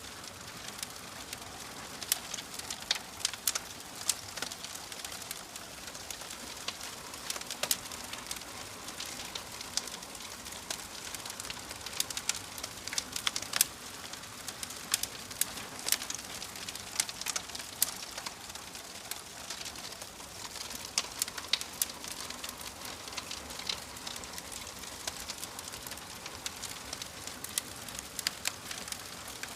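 Wood fire burning in a fireplace, crackling and popping: frequent sharp irregular snaps over a steady soft hiss.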